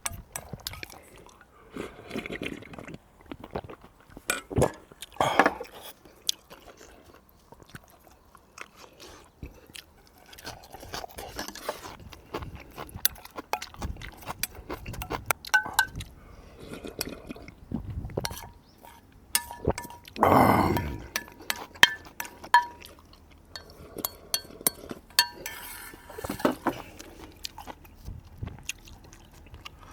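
Close-up eating sounds: chewing and slurping, with many sharp clinks of a spoon and chopsticks against bowls and dishes.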